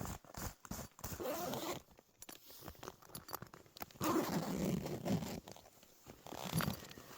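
A zipper pulled in a few long strokes, the two main ones about a second in and about four seconds in, with a shorter pull near the end.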